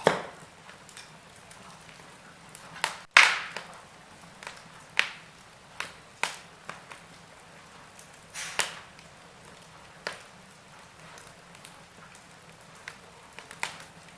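Wood fire crackling in a fireplace: sharp pops and snaps at irregular intervals, the loudest right at the start and about three seconds in, over a faint steady hiss.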